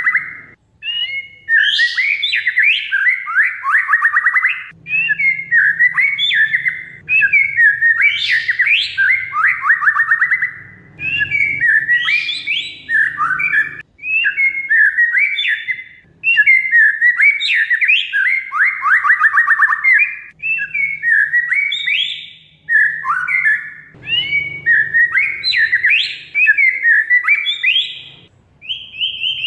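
Oriental magpie-robin (kacer) in full song: a long run of varied, fast phrases with rapid trills and sweeping notes, broken only by brief pauses.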